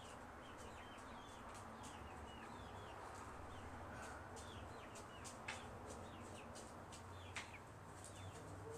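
Faint bird chirping: short, high, falling chirps repeating every half second or so, with two sharp clicks in the second half.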